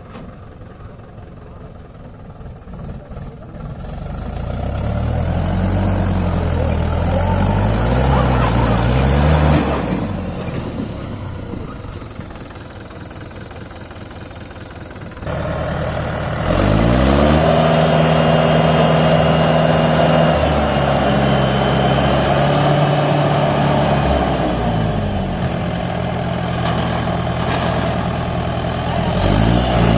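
Tractor diesel engine revving up and down, held at high revs for several seconds at a time between the climbs and drops.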